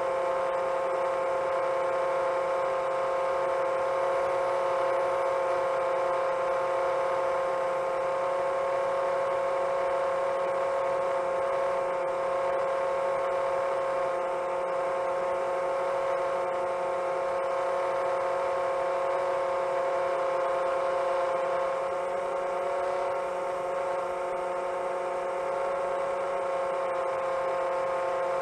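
Motors and propellers of a 7-inch long-range FPV quadcopter at a steady cruise, a continuous whine of several held tones, dipping slightly about 22 seconds in.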